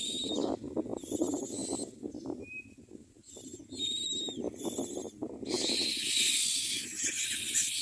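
Common myna nestlings begging with raspy, hissing calls: short bursts at first, then loud and continuous from a little past halfway. A low crackling rustle from the nest runs underneath.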